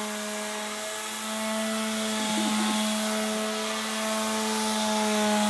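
Electric sander running steadily on a wooden tabletop, a constant motor hum over a sanding hiss that grows a little louder about two seconds in.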